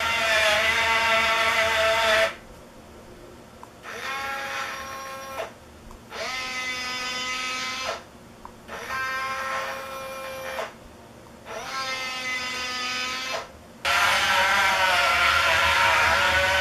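Small electric drive motors of a radio-controlled model bulldozer whining in separate runs of about two seconds, each rising quickly in pitch as it starts and cutting off suddenly. The first and last runs are louder and rougher than the four in between.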